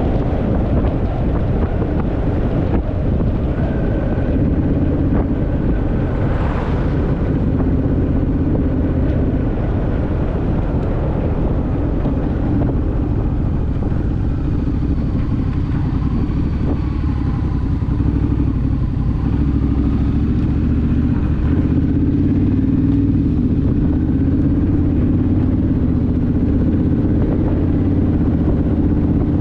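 Honda Rebel motorcycle's parallel-twin engine running at a steady cruising speed.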